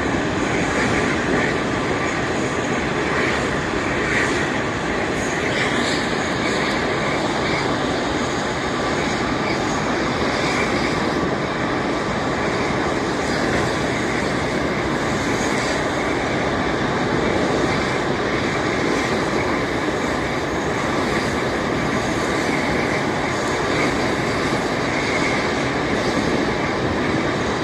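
Airbus A380 jet engines during its landing, a loud, steady rushing noise that holds without a break.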